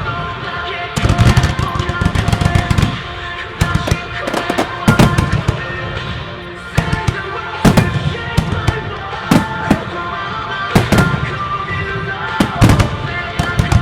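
Fireworks bursting in rapid clusters of loud bangs over a rock song with singing, played through loudspeakers for a music starmine.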